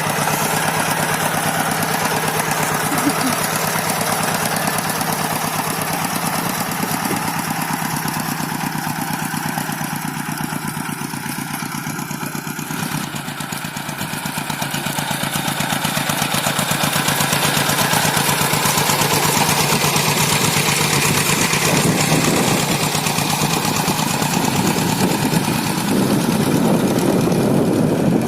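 Rice-field hand tractor's diesel engine running steadily, dropping off somewhat around ten seconds in and then louder again.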